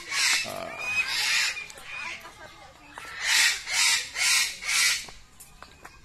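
A bird squawking harshly over and over, with calls about half a second apart: a run of three in the first second or so, then four more between about three and five seconds in.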